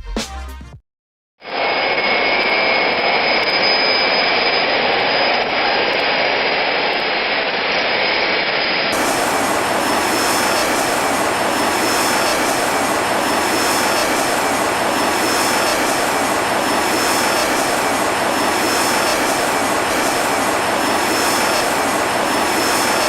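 Boeing 720 jet engines running steadily: a constant rushing noise with a thin high-pitched whine over it. About nine seconds in, the sound abruptly turns fuller and brighter, as at a cut between two pieces of footage.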